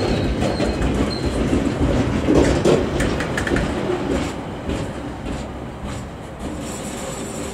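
Container wagons of a binliner freight train rolling past, the wheels clattering over the rail joints in clusters of clicks. The sound fades steadily as the end of the train draws away.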